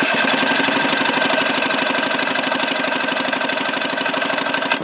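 Yamaha WR500 WaveRunner two-stroke twin being cranked over by its starter with a compression gauge in the PTO-side cylinder, a loud, steady, fast chugging beat. The cylinder reads 150 psi, healthy compression.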